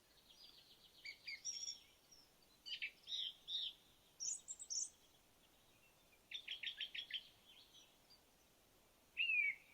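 Birds singing: scattered short chirps and trills. There is a fast trill about six and a half seconds in, and a run of repeated down-slurred notes near the end.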